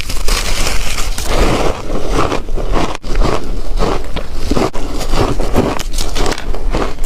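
Chunky ice being bitten and chewed, close to the microphone: a dense, unbroken run of loud crunching and crackling as the pieces break between the teeth.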